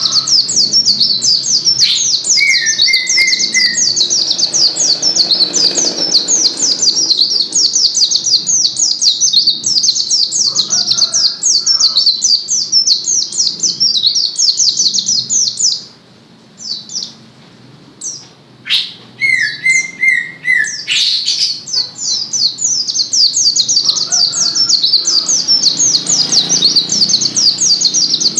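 White-eye (pleci) singing a long, fast, high-pitched chattering song almost without pause, breaking off for about three seconds past the middle and then starting again. A short lower trilling phrase comes in twice.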